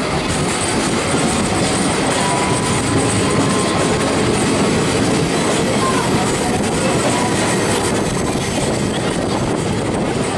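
Steady running noise of a moving express train heard from an open coach doorway: wheels rolling on the rails and air rushing past the door, with a faint high squeal now and then.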